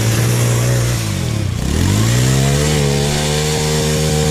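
Off-road bike engine revving hard. About one and a half seconds in, its pitch drops sharply as the throttle eases off, then climbs back and holds high.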